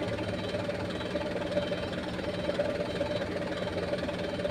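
Diesel engine of a heavy vehicle running steadily at a low, even speed.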